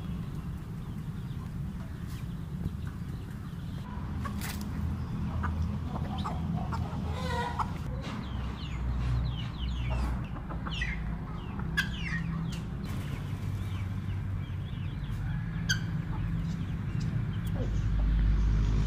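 Fowl clucking, with scattered short chirping calls over a steady low rumble.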